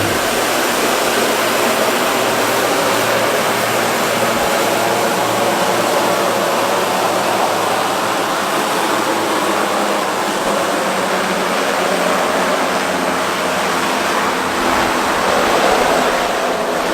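Aircraft engines at takeoff power: a loud, steady roar with faint steady engine tones running through it.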